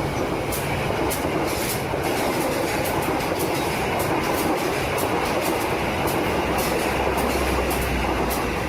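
A train running along the track: a steady rolling rumble with regular clicks of the wheels over the rails.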